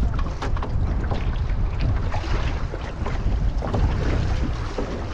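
Canoe being paddled, with water splashing and sloshing against the paddle and hull in short irregular bursts, under a heavy low rumble of wind on the microphone.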